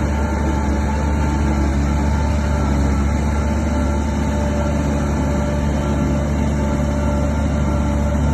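Diesel engine of a SHANTUI DH17 bulldozer running steadily under work, a heavy low drone with a faint steady whine above it.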